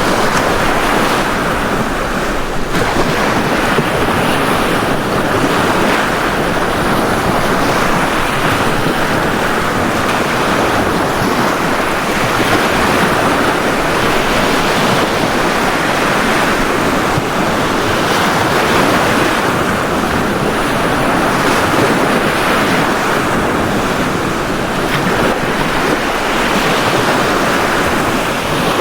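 Ocean surf washing onto a beach, a steady rushing noise that swells and eases only slightly.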